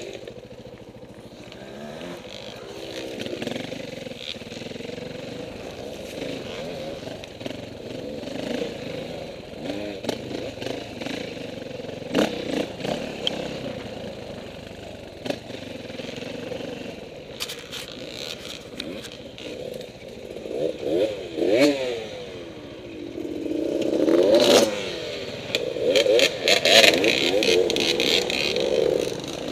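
KTM 450 single-cylinder four-stroke dirt bike engine revving up and down as it is ridden off-road, with clattering knocks from the bike over rough ground. The revs climb hardest in the last third.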